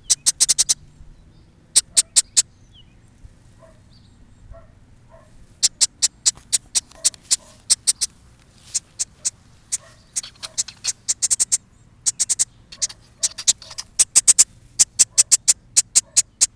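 A fledgling blackbird begging: rapid, very short, high-pitched chirps in quick clusters with short pauses between them.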